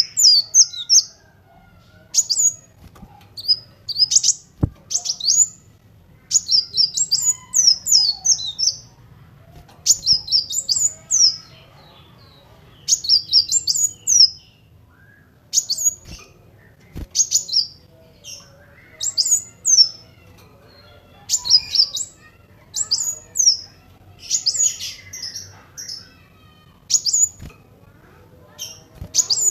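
Kolibri wulung, a sunbird, singing: rapid, high chirping phrases about a second long, repeating every second or two.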